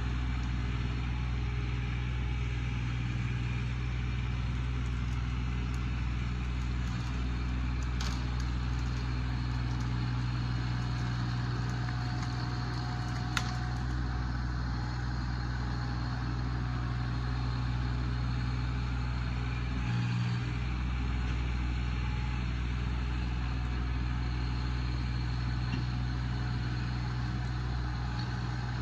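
Tractor engine running steadily at a constant speed, with a short sharp click about halfway through.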